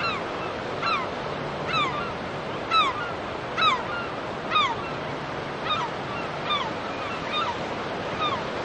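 Steady wash of waves with a bird giving short, falling cries about once a second, loudest in the middle and fading toward the end.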